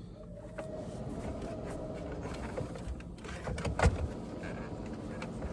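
Light plastic clicks and rattles of a truck's pulled-out AC control panel and its wiring connectors being handled, with one sharper click a little before four seconds in.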